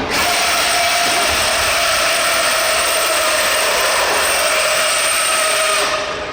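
Radio-controlled pulling vehicle making a pull, its drivetrain whining steadily at full power with a slight waver in pitch, cutting off about six seconds in.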